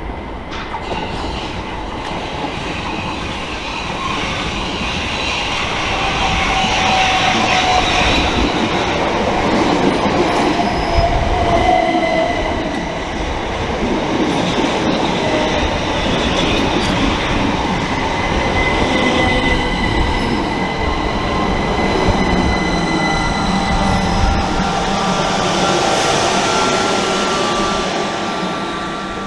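Electric multiple-unit train moving through the station, with rail noise, high squealing tones and a whine that slides in pitch. It grows louder a few seconds in and fades near the end.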